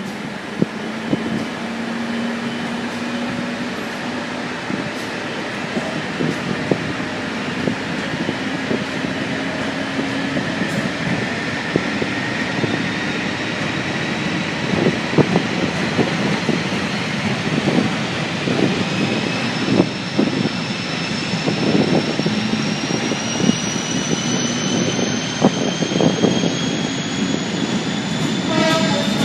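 Train pulling away, a whine rising steadily in pitch as it gathers speed, with wheels knocking over rail joints more and more often from about halfway.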